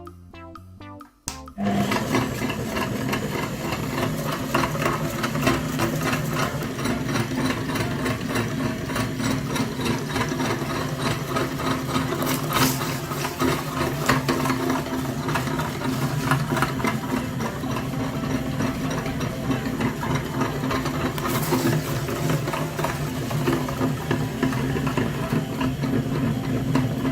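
A small motor running steadily with a fast, even mechanical chatter, starting about a second and a half in after a short stretch of music.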